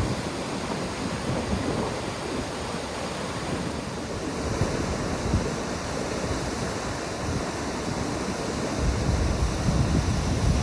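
Wind buffeting the microphone in gusts over a steady rushing hiss; the low rumbling gusts grow stronger near the end.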